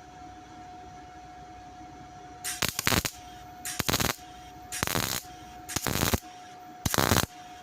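MIG welder stitch-welding sheet-steel car body panel in five short crackling bursts, each about half a second long and about a second apart, starting a couple of seconds in.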